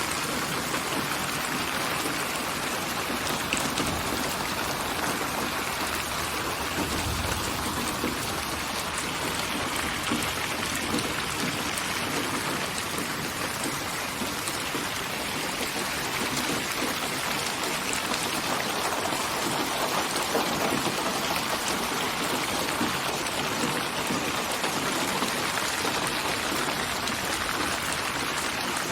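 Steady rain falling, a dense even patter of raindrops used as white noise, with no change in strength.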